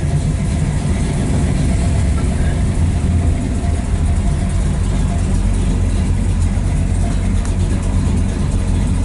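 1963 Dodge Ramcharger clone's 426 Max Wedge V8 running steadily with a deep, even note as the car is driven.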